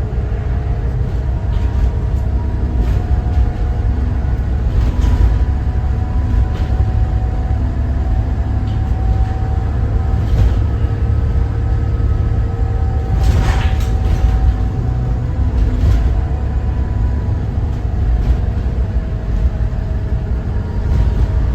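School bus driving, its Cummins ISB 6.7 inline-six turbodiesel running under a steady low rumble of engine and road noise, with a few short knocks or rattles, the loudest about two-thirds of the way through.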